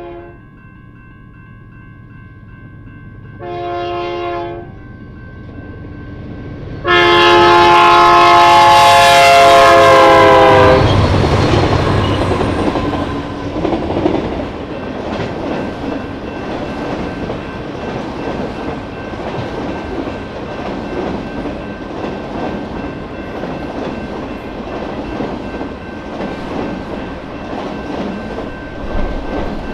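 Diesel freight locomotive's air horn: a short blast about four seconds in, then a long, loud blast that drops in pitch as the locomotive passes. After it comes the steady rumble and clatter of the train's cars rolling by.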